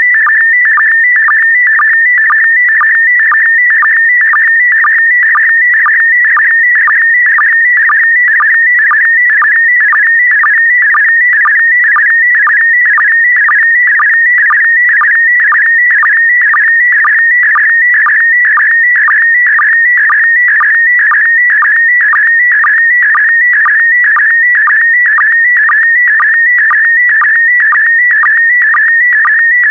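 PD120 slow-scan television (SSTV) signal: a loud, continuous warbling electronic tone, broken about twice a second by a short lower-pitched blip, the line sync pulse that a decoder uses to line up each pass of the image.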